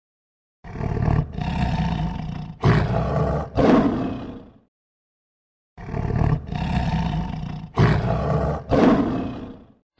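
A lion roaring: a run of four loud roars lasting about four seconds, then after a short silence the same run of roars again.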